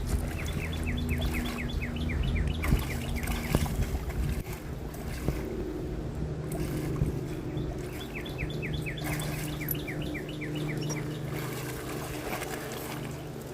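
A songbird singing two long runs of quick, down-slurred whistled notes, over a steady low mechanical hum, with a few sharp knocks in between.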